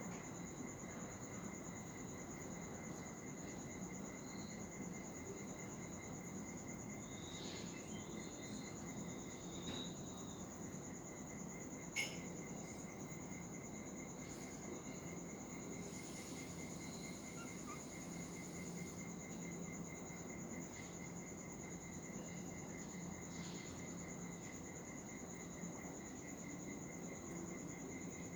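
Steady high insect chirring: a continuous thin high tone over a fast, even pulsing trill, with a few faint short chirps about 8 to 10 seconds in and a single click about 12 seconds in.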